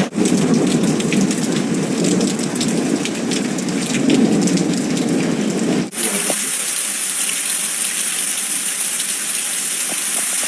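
Hailstorm: hail and rain pelting hard surfaces in dense, sharp ticks over a low rush of wind and rain. About six seconds in it cuts to a steady, dense hiss of falling hail and rain with few distinct ticks.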